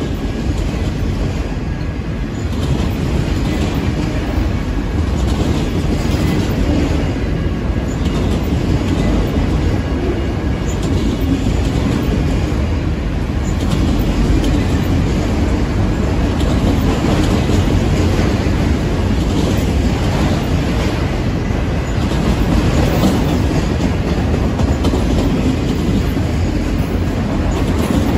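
Freight train of autorack cars rolling past close by: a steady rumble of steel wheels on rail.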